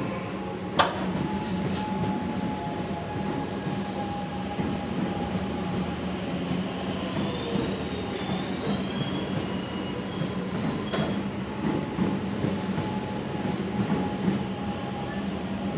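Comeng electric suburban train running past close alongside the platform: steady rumble of wheels and motors, with a thin, wavering wheel squeal in the middle. There is a sharp clack about a second in and another later on.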